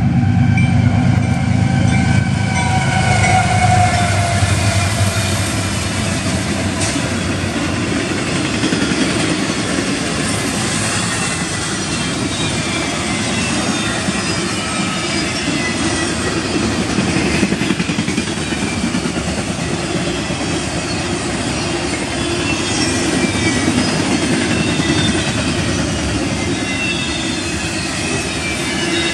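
Double-stack intermodal container train rolling past: steady wheel-on-rail noise with thin, wavering wheel squeal. In the first few seconds the lead diesel locomotives' engine drone and a horn chord fade away.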